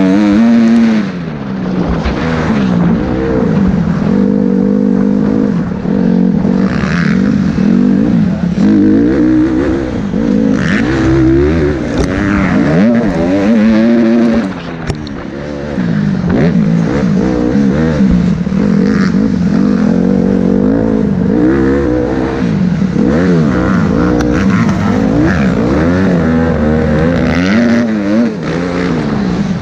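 Motocross bike engine revving hard while being ridden, its pitch climbing and falling again and again as the rider works the throttle and gears. It eases off briefly about halfway through.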